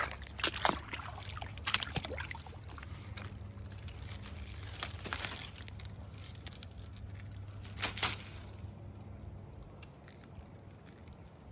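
Irregular splashing and sloshing of shallow water and mud with scattered sharp knocks, busiest in the first two seconds and again about five and eight seconds in, then dying down: hands digging a large fishing lure out of the water.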